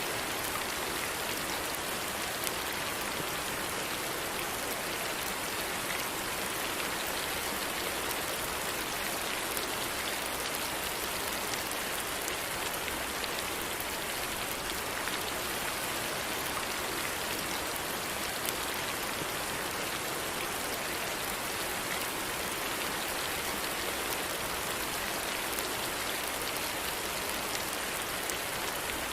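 Steady rainfall: an even hiss of rain on a surface, with faint scattered drop ticks.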